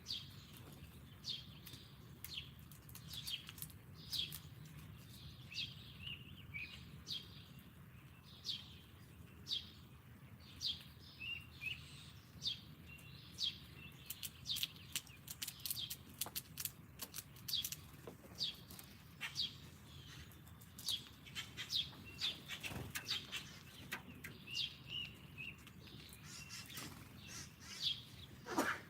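Small songbirds chirping over and over, short falling chirps coming one or two a second, with scattered sharp clicks among them.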